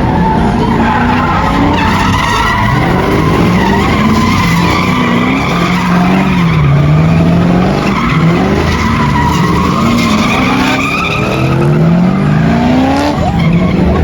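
Car engine revving hard, its pitch rising and falling again and again, with tyres squealing as the car drifts. Several quick rising revs come near the end.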